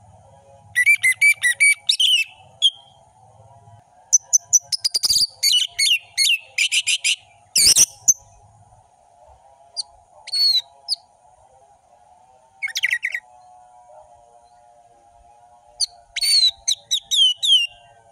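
Orange-headed thrush (anis merah) singing: loud, varied phrases of rapid whistled notes and trills, in bursts of one to four seconds separated by short pauses. A faint steady wavering tone runs underneath.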